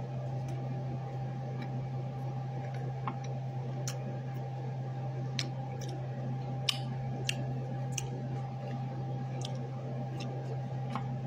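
Mouth sounds of someone chewing chicken nuggets: scattered sharp clicks and smacks, over a steady low hum.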